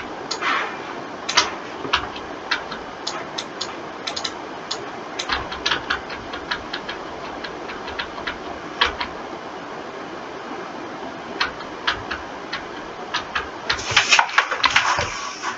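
Irregular clicking of a computer mouse and keyboard, with a quick burst of clicks near the end, over a steady background hiss.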